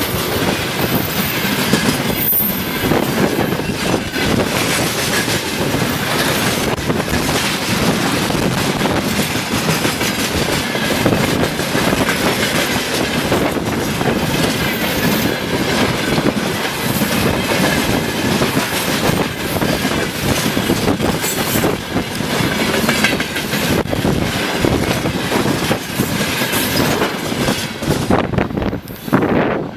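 Freight train of railway tank cars rolling past close by: a steady rumble and rattle of wheels and running gear, with repeated clicks of wheels over the rail joints. The sound drops off sharply near the end as the last cars go by.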